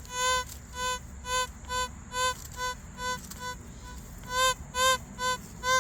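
Metal detector giving a run of short tone beeps at one pitch, about two to three a second, as the search coil sweeps over buried metal targets; the beeps vary in loudness and are strongest a little past the middle.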